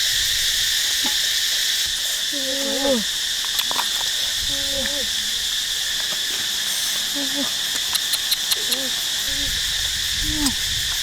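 Steady, shrill chorus of crickets or other insects, with a few short low voice-like sounds and some sharp clicks.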